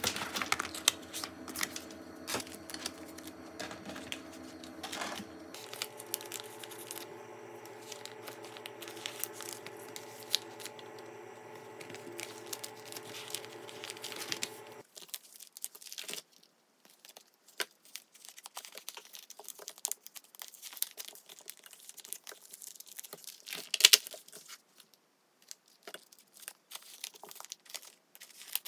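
Clear plastic binder pocket pages and photocard sleeves crinkling and rustling as cards are slid into the pockets, with many small clicks and one sharper click near the end.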